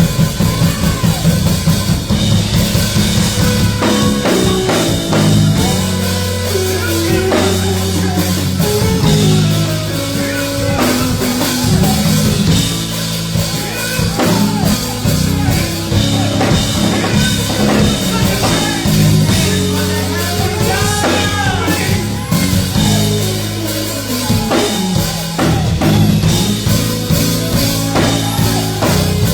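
Live gospel band music with a drum kit and a steady bass line, with some singing.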